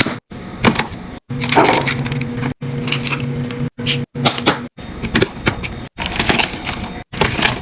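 Plastic containers, bottles and packaging being handled and set down into a fridge: a run of sharp clicks, knocks and crinkles in quick cuts, over a steady low hum.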